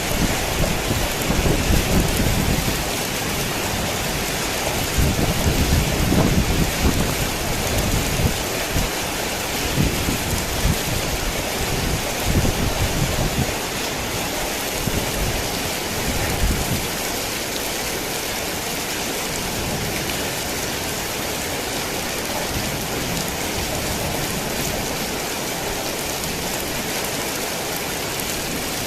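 Heavy rain falling steadily, with low rumbling thunder swelling and rolling through the first half before the rain carries on alone.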